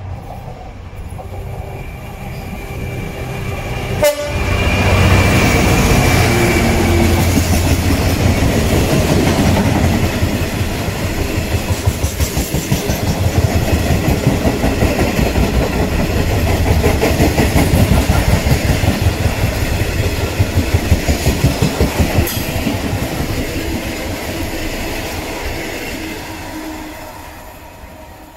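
A Class 66 diesel freight locomotive approaching and passing, with a sharp click about four seconds in. A long rake of open box wagons follows, their wheels clattering rhythmically over the rails, then fading as the train draws away near the end.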